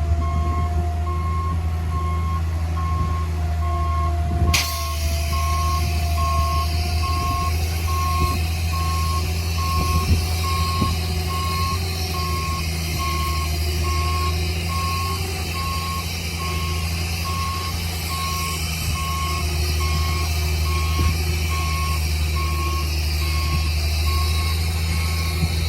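Heavy earthmoving machine's diesel engine running steadily while its reversing alarm beeps at an even pace. About four and a half seconds in, a harsh high hiss suddenly joins and carries on.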